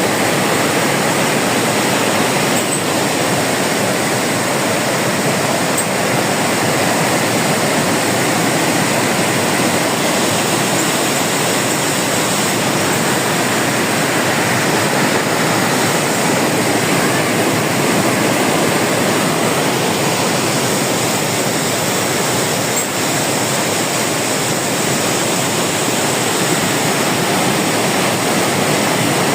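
Loud, steady rush of a large waterfall, the Iguazú Falls pouring down, unbroken throughout.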